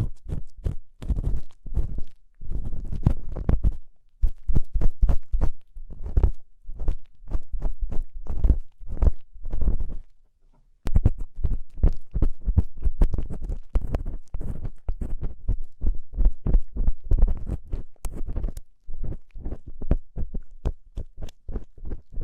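Close-miked ear cleaning: an ear-cleaning tool scraping and rubbing in quick, scratchy strokes, with a short pause about ten seconds in.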